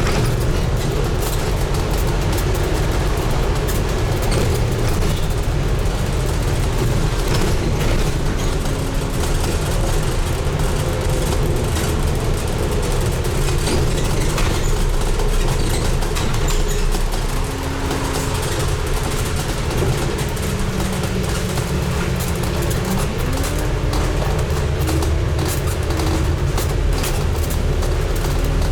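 Scania N250UD double-deck bus on the move: a steady engine and road rumble, with a faint whine that changes pitch and rises about two-thirds of the way through as the bus pulls away or accelerates.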